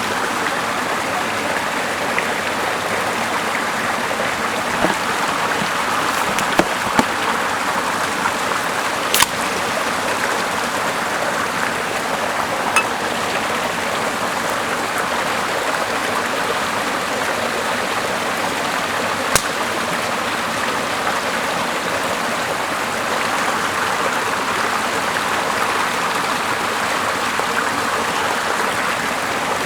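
Small river flowing steadily, a continuous rushing water sound, with a few sharp isolated clicks or pops scattered through it.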